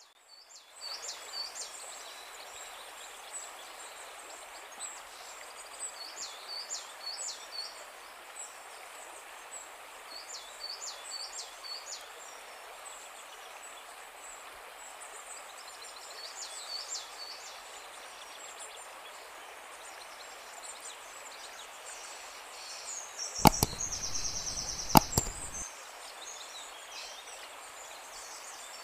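Outdoor ambience: a steady hiss with a bird singing repeated groups of short high chirps. About 23 seconds in, two sharp clicks about a second and a half apart, with louder noise between them.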